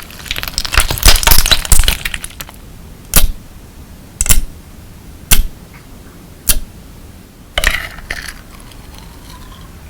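Clear slime loaded with crystal pieces being squeezed and worked, crackling and crunching densely for the first couple of seconds. Then four sharp pops about a second apart, and a short crunchy burst near the end.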